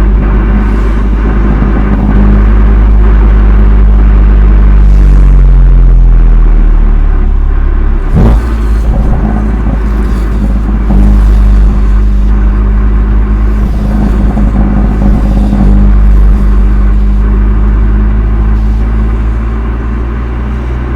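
BMW M2 Competition's stock exhaust from its twin-turbo inline-six, running steadily loud, with the revs sinking a few seconds in, a sharp sudden blip about eight seconds in, then steady running again. The sound is distorted, clipped by an overloaded microphone.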